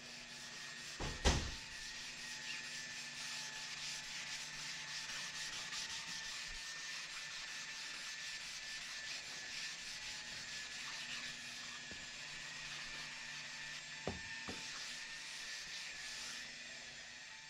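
Sanding on a car's fender panel: a steady hiss that cuts off suddenly near the end. A sharp knock about a second in and a lighter one near the end.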